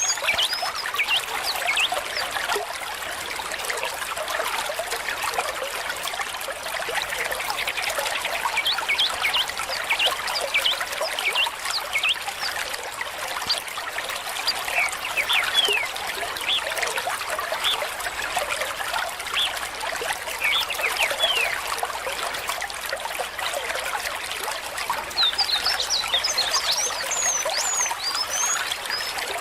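Small stream trickling and bubbling over stones in a steady flow, with many quick little plinks. Clusters of high, short chirps come near the start and again near the end.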